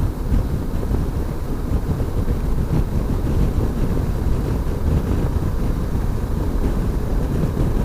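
Wind rushing over the microphone with the steady low rumble of an Aprilia motorcycle riding along at a constant pace.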